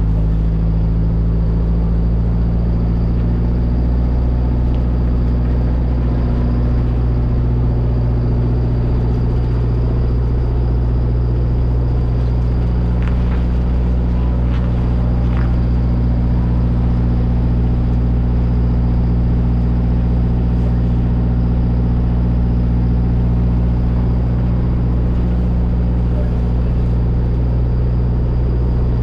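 Diesel semi truck engine running steadily under way, a low even drone. Its pitch shifts slightly about three seconds in.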